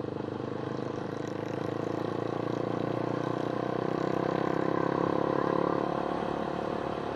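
Engine running steadily, its note swelling a little midway and then easing back.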